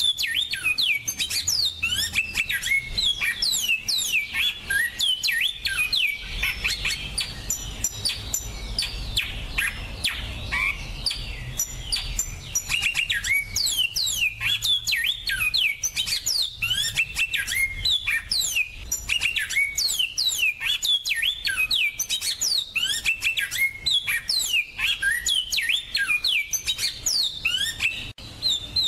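Captive finch singing a fast, continuous song of sharp, down-slurred chirps and trills, recorded clean as a training song for cage birds.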